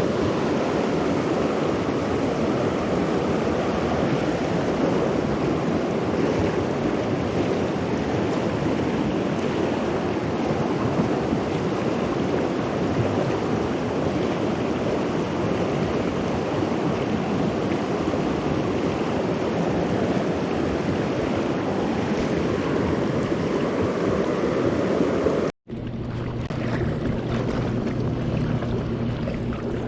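Steady rush of flowing water with wind buffeting the microphone. After a sudden break about 25 seconds in, the rush is lighter and a low steady hum joins it.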